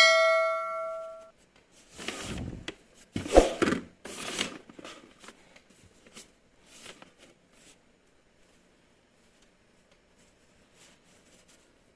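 A ringing chime that fades over about a second, then a few short bursts of rustling and handling noise, dying away to faint scattered ticks.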